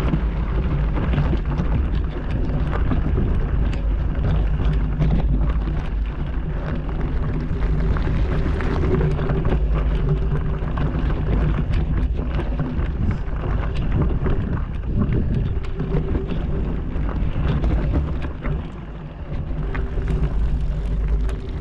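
Mountain bike ride over a rocky trail: steady tyre rumble with many small rattles and knocks, and wind buffeting the microphone, briefly easing off near the end.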